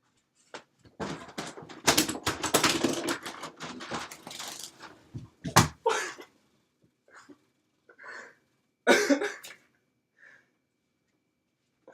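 A frozen window being forced open: a few seconds of rattling and scraping, a sharp bang about five and a half seconds in, then a few softer knocks.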